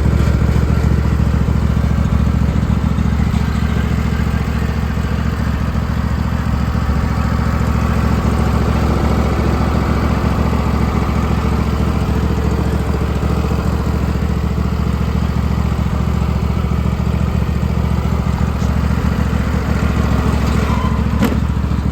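John Deere L130 lawn tractor engine running steadily, with a single sharp click near the end.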